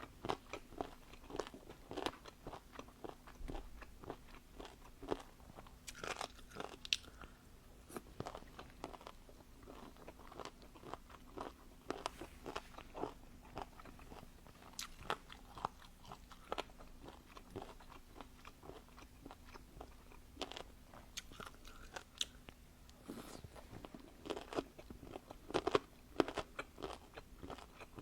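Close-miked eating: irregular crunching, biting and chewing of food, with a faint steady hum underneath.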